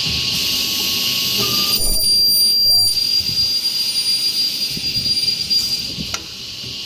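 CNC corner-connector cutting saw running, its direct-drive carbide saw blade cutting metal profile to length. A steady high-pitched whine sounds from about two seconds in until near the end, over a constant hissing machine noise, followed by a sharp click.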